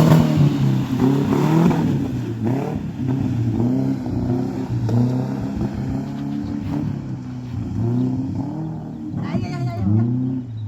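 Off-road 4x4's engine revving up and down over and over as it works through rough ground, the pitch rising and falling every second or so.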